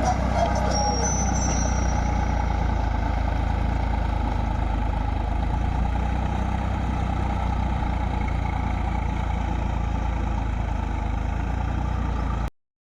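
Swaraj tractor's diesel engine running steadily at a constant speed, cutting off suddenly near the end.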